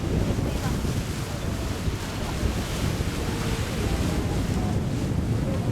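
Wind buffeting the microphone on a moving tour boat, over a steady rush of water and boat noise.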